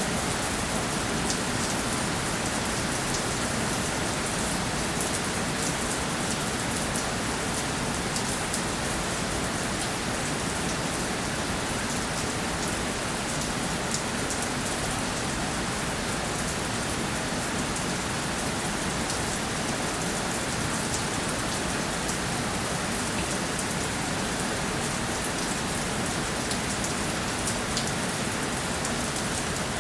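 Steady rainfall: a continuous even hiss of rain with many small drop ticks, unchanging throughout.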